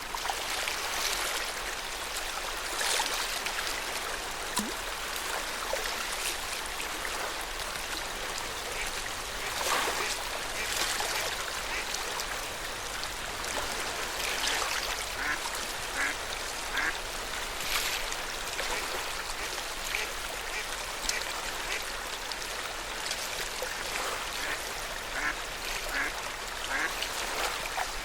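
Lake water lapping and splashing at the shore, with short bird calls repeating through the second half.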